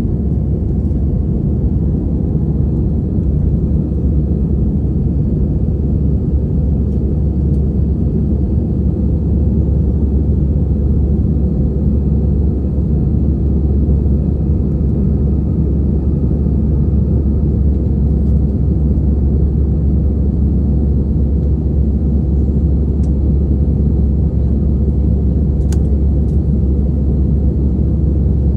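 Steady low rumble of a passenger airliner's engines and airflow, heard from inside the cabin.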